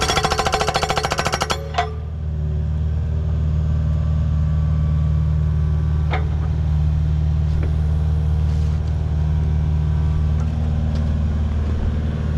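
Hydraulic breaker hammer on a mini excavator firing a rapid run of blows that stops about a second and a half in, over the excavator's steady diesel engine running. There is a single knock about six seconds in.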